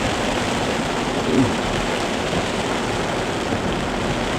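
Heavy cloudburst rain pouring down in a steady hiss, with rainwater running across a flooded road.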